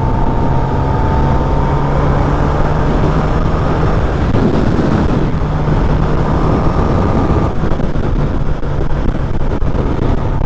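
Kawasaki ZX-10R's inline-four engine running steadily at highway cruising speed, with a rush of wind and road noise.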